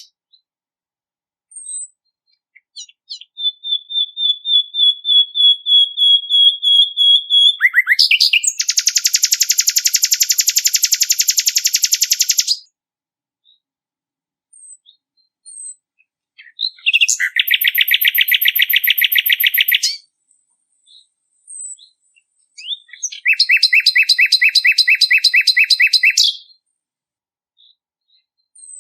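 Songbird song in several bursts of fast, rapidly repeated chirping notes. A thin high trill comes first, then three loud, dense trills that start and stop abruptly, with faint single chirps in the short gaps between.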